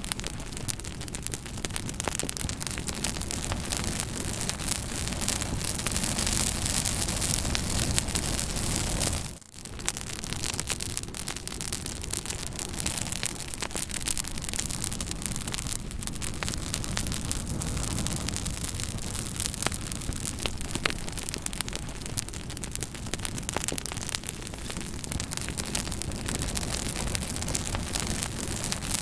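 Fire crackling steadily: a dense hiss full of small pops and snaps. The sound dips out for a moment about a third of the way through, then carries on.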